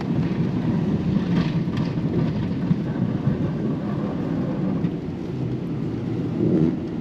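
Pickup truck with a snowplow running, a steady low rumble.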